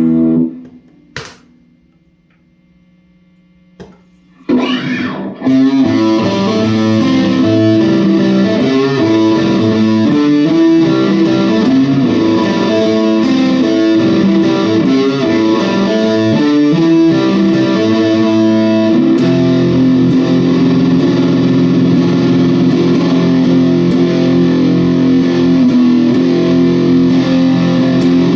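Distorted electric guitar, a Reverend Charger HB on its bridge pickup, played through a TC Electronic Grand Magus distortion pedal into a Blackstar Debut 50R amp. A chord is cut off at the start, a short pause follows with a couple of sharp clicks, then a riff of quickly changing notes starts about four seconds in, giving way to long ringing chords near the two-thirds mark.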